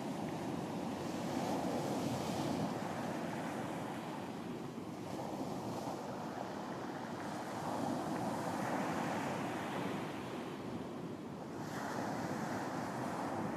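Sea waves breaking and washing on a beach, a steady surf that swells and ebbs every few seconds, with some wind.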